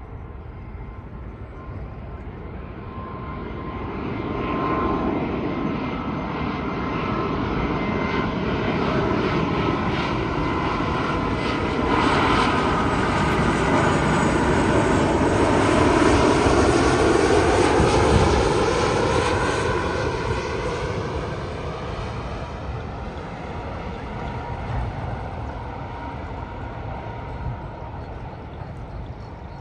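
Jet airliner passing low overhead on its landing approach: engine rush and fan whine grow louder, peak about halfway through, then fade as it moves away.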